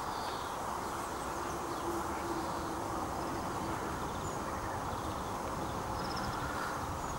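Outdoor wetland ambience: a steady rushing background noise with faint, brief bird chirps scattered through.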